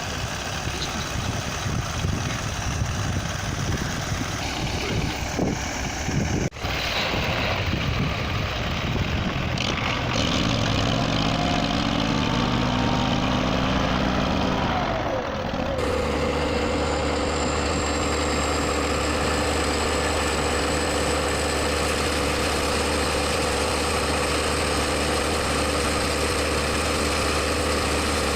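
Tractor engines running in a string of short clips joined by abrupt cuts. About a second before the second cut the engine's pitch drops, as its revs fall. After that cut, a steady engine drone holds.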